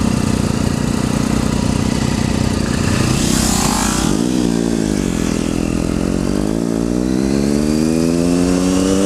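Motorcycle engine running at low revs, then pulling away, its pitch dipping briefly and then climbing steadily as the bike accelerates. A short rush of noise comes about three and a half seconds in.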